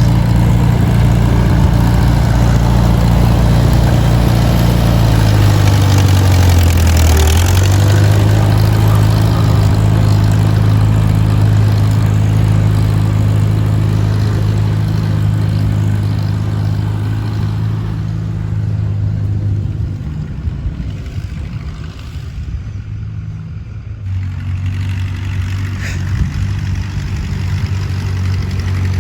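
Allis-Chalmers WD tractor's four-cylinder gasoline engine running steadily; its speed drops about six seconds in, then holds. It grows fainter for a few seconds past the middle, then comes back.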